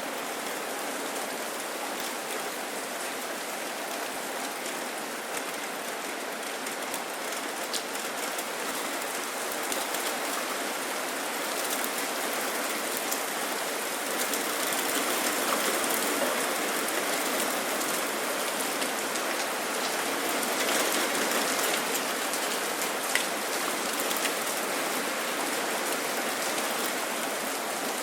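Steady rain falling, with a dense hiss of drops and scattered sharper drop ticks, growing a little heavier about halfway through.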